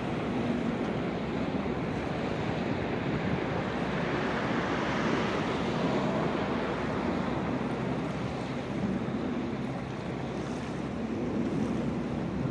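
Sea waves washing against the shore with wind, a steady rushing noise.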